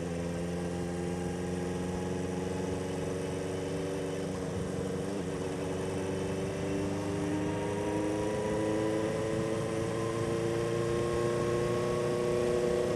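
1976 Honda CB400F's air-cooled inline-four engine running under load on the road, its pitch climbing slowly and steadily as the bike gathers speed, with road and wind noise underneath.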